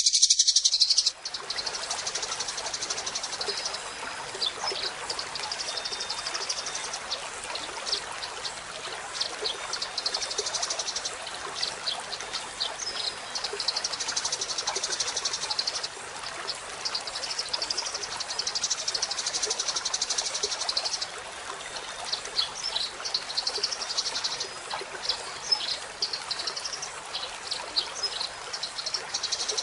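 Eurasian tree sparrows chattering continuously: fast, high chirps repeating over a steady hiss, with an abrupt switch to a quieter recording about a second in.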